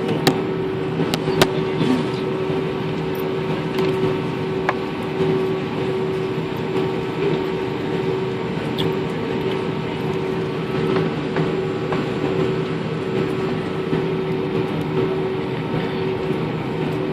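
Steady vehicle engine drone with a constant hum, unbroken throughout, with a few sharp clicks in the first two seconds.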